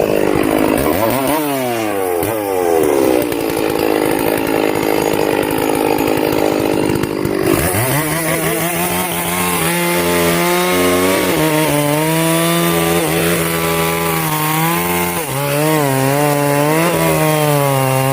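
Two-stroke chainsaw revving up and running at high speed. About seven seconds in its pitch drops and then wavers up and down, typical of the saw under load as it cuts into a log.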